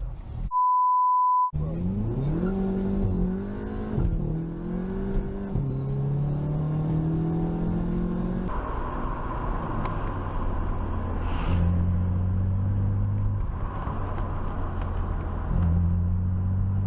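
A short, steady one-tone beep, like a censor bleep, about half a second in. Then a car engine accelerates, its pitch rising and dropping back at each gear change. After a cut, another engine pulls steadily with its pitch stepping up.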